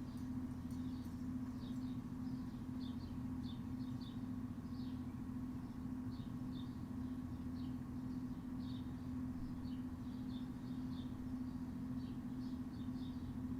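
A steady low mechanical hum, the loudest thing throughout, with small birds chirping in short high notes, several a second, over it.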